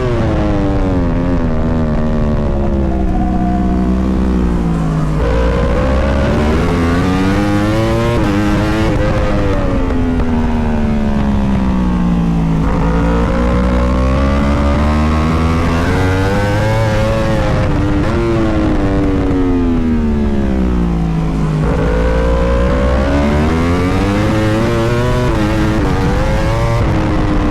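Superbike racing motorcycle's engine at racing speed: it revs up hard through the gears, then drops in pitch under braking and downshifts. It does this several times, with a low rushing rumble underneath.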